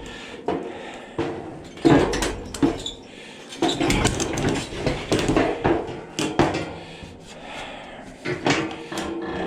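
Irregular metal clanks, knocks and rattles of hand tools and sheet-metal panels being handled while an old AC condenser unit is unbolted.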